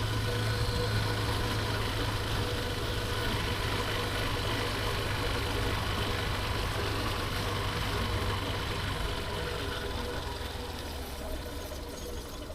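Steady motor-vehicle engine hum with road noise during a ride in traffic. It eases off over the last few seconds.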